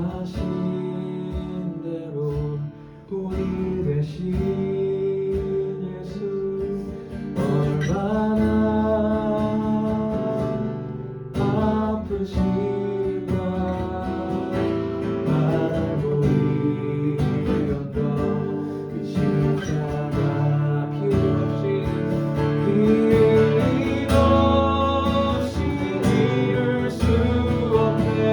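Acoustic guitar strumming slow worship music, with held sung or sustained notes over it.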